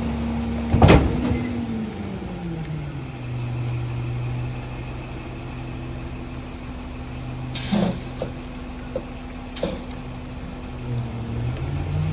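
Garbage truck's diesel engine held at high revs, dropping to a steady idle about two seconds in, then revving up again near the end. A loud clank about a second in, and two shorter sharp noises later.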